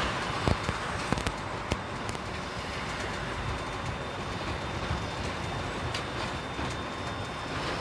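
Container truck driving along a road: steady engine and road noise, with a few sharp knocks and rattles in the first two seconds and another about six seconds in.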